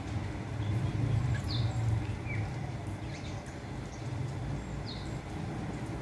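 A few short bird chirps, about one and a half seconds in, again just after two seconds and near the end, over a steady low background rumble.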